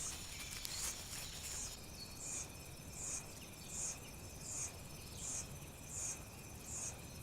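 Insects chirping: a short, high chirp repeating about every three-quarters of a second over a steady high insect drone, both setting in about two seconds in after a few faint rustles.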